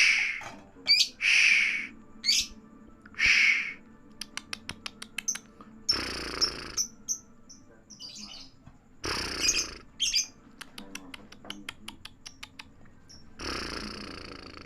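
Lovebird chattering: harsh, screechy calls broken by thin high whistles and runs of rapid clicking trills.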